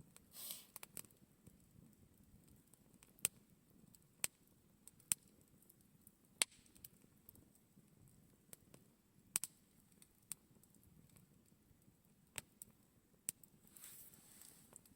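Campfire burning with faint, sparse crackles: sharp single pops every second or two, and a brief hiss near the start and again near the end.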